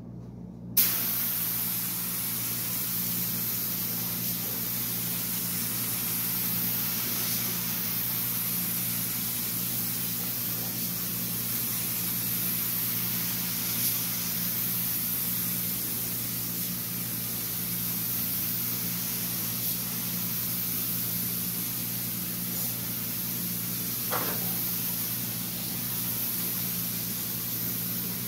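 Compressed-air paint spray gun hissing steadily while spraying primer, starting suddenly about a second in as the trigger is pulled.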